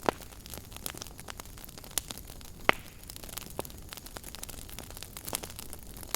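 Wood fire burning in a fireplace, crackling with irregular sharp pops over a low steady hiss; the loudest pops come just after the start and a little before the halfway point.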